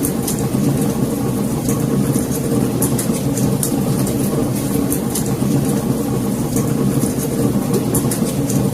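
Wood fire burning in a fireplace: a steady low rumble of flames with frequent short, sharp crackles and pops.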